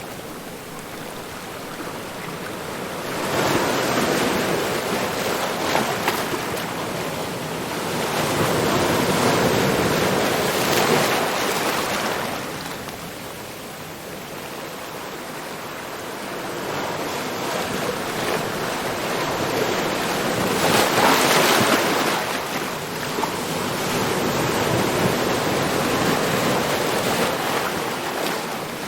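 Ocean surf: a continuous wash of breaking waves that swells three times, as waves break, the loudest surge about two thirds of the way through.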